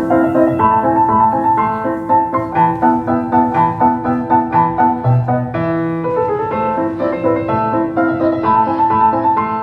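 Piano music: a steady run of notes at about three a second over sustained lower notes.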